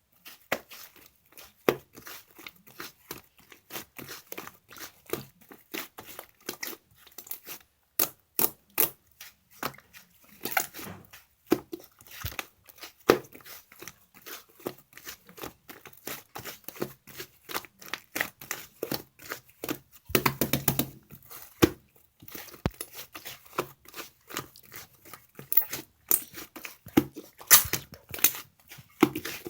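Fluffy clay slime being squeezed, poked and stretched by hand, giving a steady stream of irregular small clicks, pops and crackles, with a denser run of crackling about two thirds of the way in.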